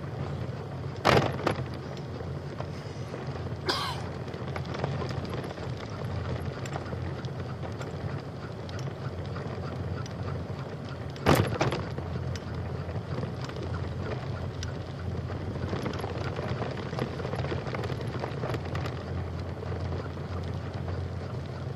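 Steady rolling rumble of a bicycle ridden along a trail, with two sharp knocks, about a second in and about eleven seconds in.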